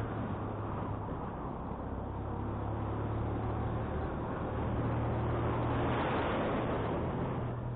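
Wind rushing over the microphone of a moving motorcycle, with the motorcycle engine running steadily underneath as it climbs uphill. The wind swells a little about two-thirds of the way through.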